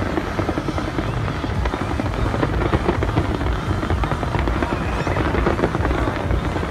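A large fireworks display going off in a rapid, unbroken barrage of crackles and bangs over a low rumble.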